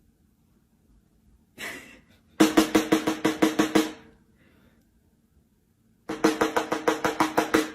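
Rapid drum-like strikes, about six a second, in two runs of roughly a second and a half each, with a short burst just before the first.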